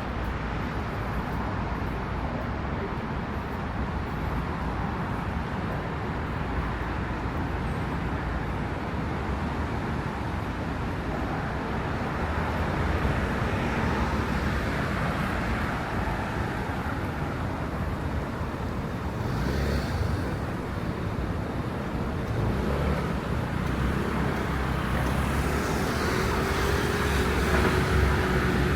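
Street traffic noise: cars and other vehicles passing on a wet road, a steady hiss and rumble that grows louder near the end.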